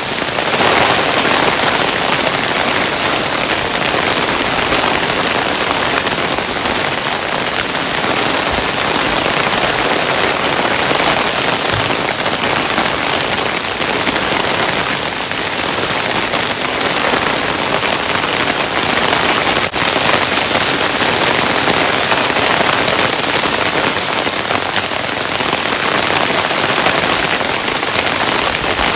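Hailstones falling and rattling on a surface: a dense, steady patter like heavy rain.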